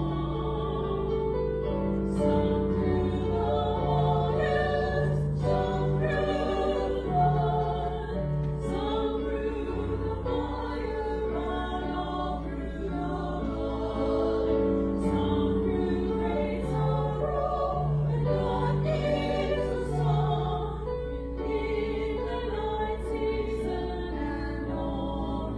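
Choir singing in slow, held chords, the notes changing every second or two.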